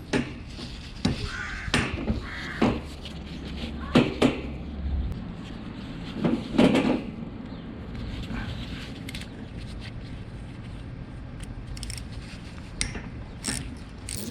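Irregular knocks and clanks of hand tools and metal parts, from working a car's starter motor loose: several sharp knocks in the first few seconds, a longer, louder clatter about six and a half seconds in, then a few lighter clicks near the end.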